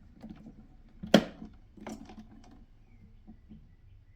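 Scattered light clicks and taps from a screwdriver and plastic console parts being handled. The sharpest click comes about a second in and another just before two seconds.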